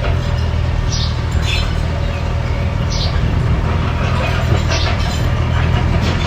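Mini bulldozer's diesel engine running steadily, with short high squeaks every second or two.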